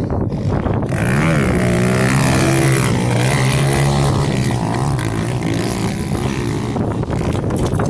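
Pit bike engines revving hard as they race up a straight rhythm lane. The pitch climbs about a second in, holds high, then rises and falls through the rest.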